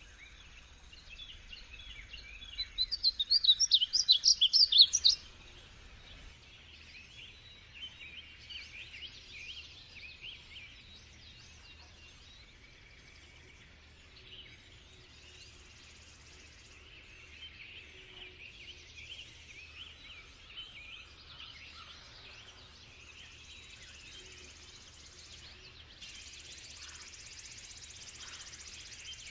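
Small songbirds singing: a loud, rapid trilling song about three to five seconds in, then fainter chirping and twittering.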